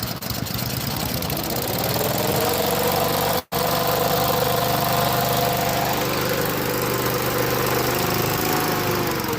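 Engine of a fire-department fan mounted on a boat, running under power: its pitch rises about two seconds in, holds steady, then drops off near the end. The sound cuts out completely for an instant midway.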